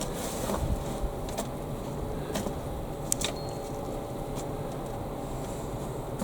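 Steady low background hum with a few brief, faint clicks and knocks scattered through it, as potatoes are dug and handled.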